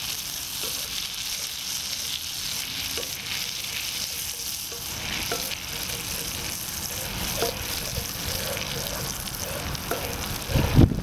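Chopped garlic sizzling steadily in melted butter in an enamel pan over a wood-burning fire stove, with a wooden spoon stirring and scraping, and small scattered clicks. A short thump comes just before the end.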